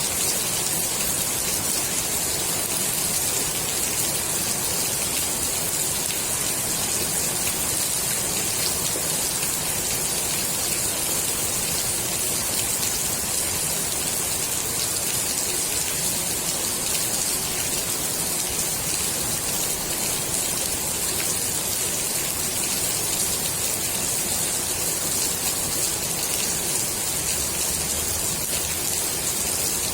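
Steady rain falling onto the water of a swimming pool: a constant hiss of drops on the surface with no change in intensity.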